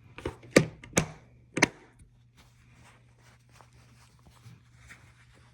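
Four sharp knocks or clicks close together in the first second and a half, then faint scattered ticks over a steady low hum.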